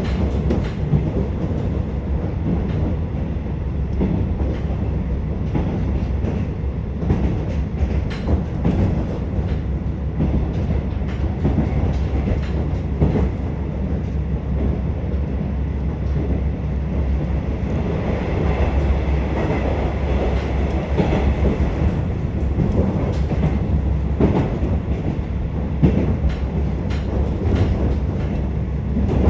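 Inside a KiHa 47 diesel railcar under way: steady diesel engine and wheel rumble, with irregular clicks of the wheels running over rail joints.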